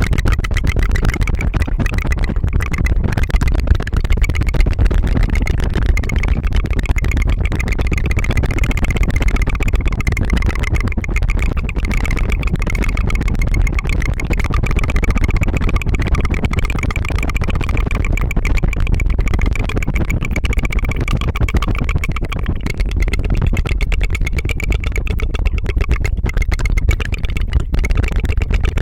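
Rapid tongue fluttering close to a binaural microphone: a steady, very fast 'tu-tu-tu' trill that goes on without a break.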